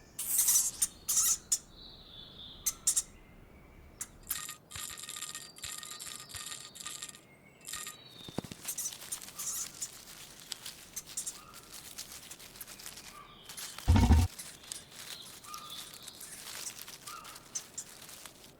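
Pet hamster squeaking, with many small clicks and scratching sounds, and one loud thump about 14 seconds in.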